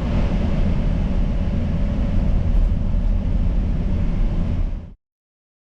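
Steady low rumbling noise that cuts off abruptly about five seconds in.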